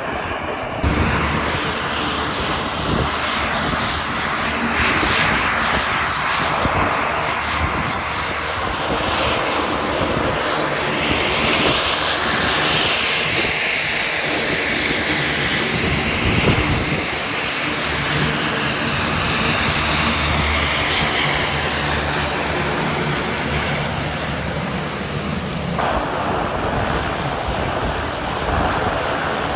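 Propeller airplane's engines running loud and close, a steady drone with a whine that rises and falls about halfway through.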